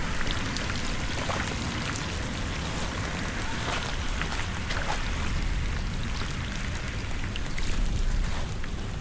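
Water splashing and running, with wind rumbling on the microphone.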